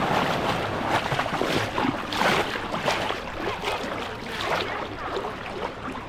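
Sea waves washing up onto the beach, a rushing wash that swells to a peak about two seconds in and then eases off.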